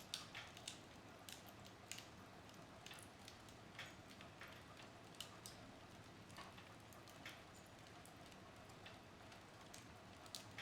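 Wood fire burning in a fireplace, faint: irregular sharp pops and snaps of the burning logs, a few a second at most, over a soft steady hiss.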